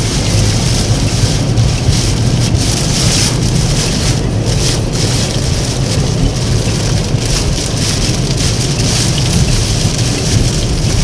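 Heavy downpour in a windstorm: a loud, dense hiss of driving rain over a deep rumble, swelling and easing with the gusts.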